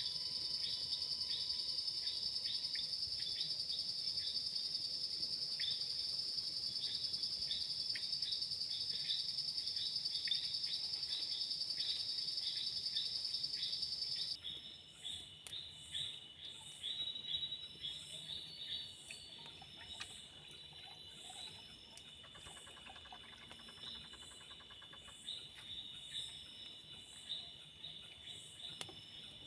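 Forest insects calling: a steady high-pitched insect drone with rapid chirps over it cuts off abruptly about halfway through. Quieter, steady high insect trilling is left after it.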